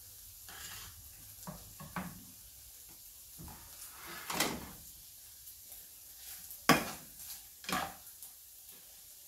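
A utensil knocking and scraping against a pan of stir-fried pasta in a handful of separate short strokes, the loudest about two-thirds of the way through.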